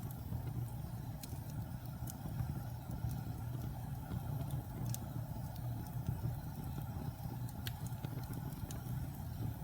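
Wood fire burning in a fireplace: a steady low rumble of flames with scattered sharp crackles and pops from damp and pine logs, one louder pop about five seconds in.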